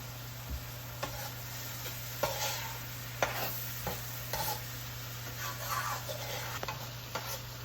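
Vegetables and seasoning sautéing in a pot with a steady sizzle, stirred with a utensil that clicks and scrapes against the pot several times.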